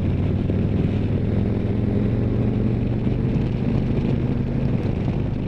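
Harley-Davidson Street Glide's V-twin engine running steadily under way, its pitch edging up slightly about a second in and then holding.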